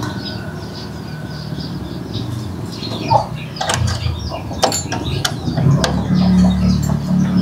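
Scattered sharp metallic clicks and taps of hand tools tightening a fitting on the tricycle, with birds chirping in the background. Background music comes in near the end.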